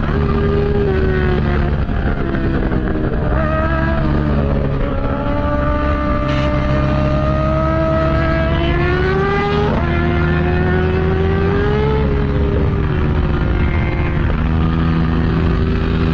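Motorcycle engine running continuously, its pitch rising and falling slowly as the throttle opens and closes.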